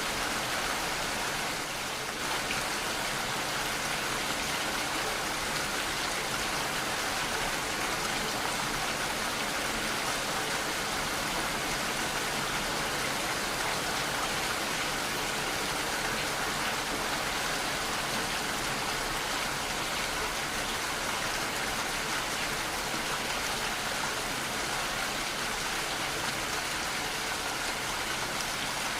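Steady rainfall, an even hiss of rain coming down on surfaces with no change in intensity.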